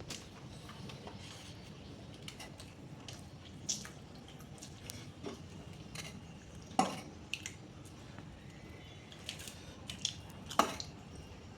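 Light, scattered clinks and taps of a plate and bowls as rice and chicken curry are handled and mixed for eating, with two louder knocks about seven and ten and a half seconds in.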